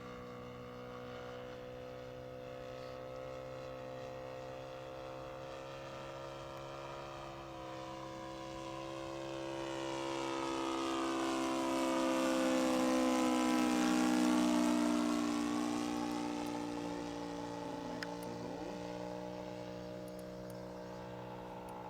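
Scale model Hawker Hurricane's engine and propeller running steadily as the plane flies past: the note swells to a peak about two-thirds of the way through, then drops in pitch and fades as it goes by.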